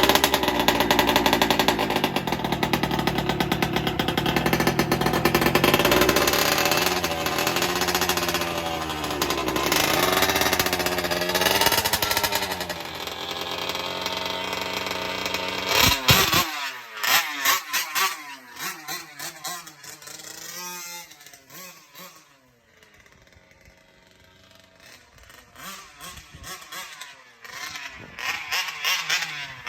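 Small two-stroke engine of a 1/5-scale gas RC car running close by, its pitch rising and falling as the throttle is blipped. About halfway through the sound drops suddenly to a quieter engine whose pitch wavers as the car moves away, then grows louder again near the end.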